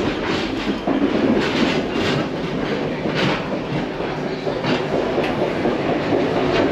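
Reading & Northern excursion train rolling along the track: a steady rumble of the cars with irregular sharp clacks of the wheels over the rails.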